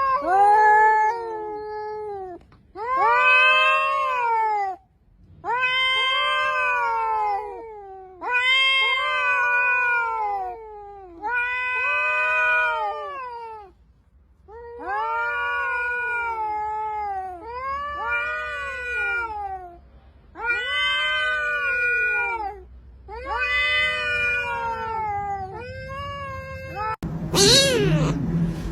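A cat meowing over and over: about ten long, drawn-out meows, each rising and then falling in pitch, one every two to three seconds. Near the end a different, higher-pitched cry starts.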